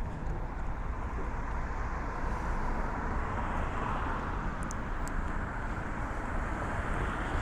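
Street traffic noise, with a vehicle's tyre and engine sound swelling as it passes about four seconds in.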